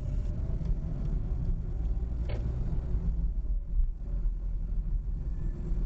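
Low, steady vehicle rumble, with a single click about two seconds in.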